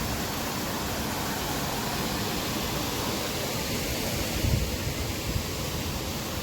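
Steady rushing of a waterfall's water, an even unbroken roar, with a brief low thump about four and a half seconds in.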